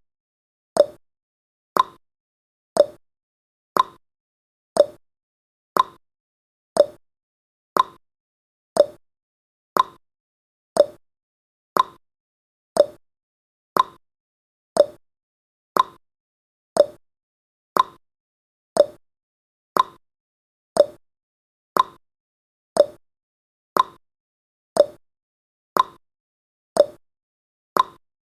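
Countdown timer's ticking sound effect: one short, sharp tick every second, like a clock, steady and even.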